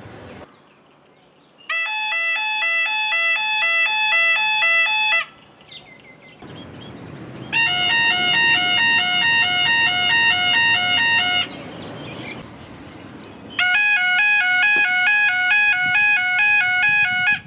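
Electronic chime of the blue lamp signal at Thai railway stations: a short repeating melody of beeping tones, heard three times in separate recordings of about four seconds each, with a break of background noise between them.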